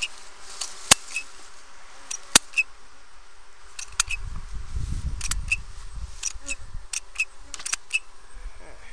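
Honeybees buzzing steadily, with sharp clicks scattered throughout. The two loudest clicks come about one and two and a half seconds in, and a low rumble runs from about four to six seconds in.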